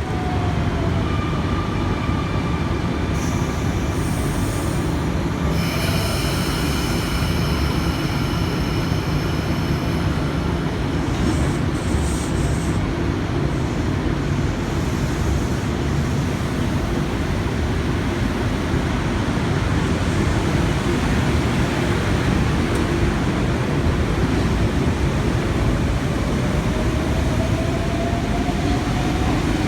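Sydney Trains K-set double-deck electric train running along an underground platform, with a steady rumble throughout. High, thin wheel squeals sound over roughly the first ten seconds, and a faint rising tone comes near the end.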